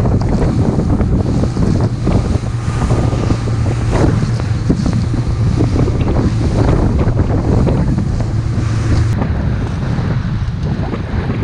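Motor fishing boat running across the lake, wind buffeting the microphone over the engine's steady drone and the hull's splashing through waves. The engine drone drops out about nine seconds in.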